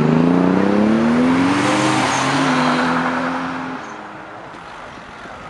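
Toyota Supra Mk4's straight-six accelerating hard away, its note rising in pitch, dropping about two seconds in at a gear change, then pulling again before fading away.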